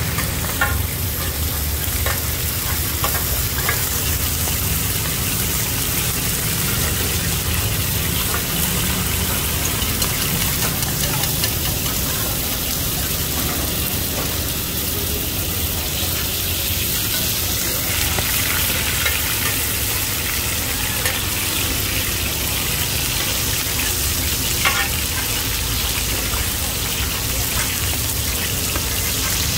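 Batter-coated mussels (hoi tod) frying in hot oil, a steady sizzle with a low rumble beneath and a few brief clicks.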